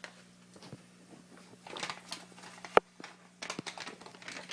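Quiet kitchen handling sounds over a steady low hum: a few soft clicks and rustles, and one sharp knock nearly three seconds in.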